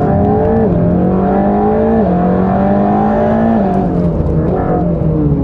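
Mercedes-AMG GT Black Series' twin-turbo flat-plane-crank V8 accelerating hard, with two quick upshifts about a second and a half apart. Near the end the engine note falls as the driver lifts off the throttle.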